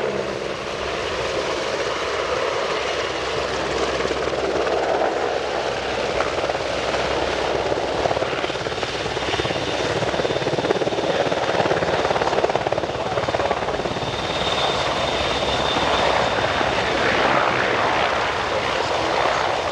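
CH-149 Cormorant, a three-engine search-and-rescue helicopter, flying its display, its turbines and rotor running steadily with a fast rotor chop. A faint high whine comes in for a couple of seconds past the middle.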